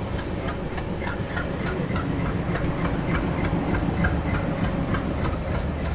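Train wheels clattering over rail joints in a quick even rhythm, about four clicks a second, over the steady low rumble of a moving train.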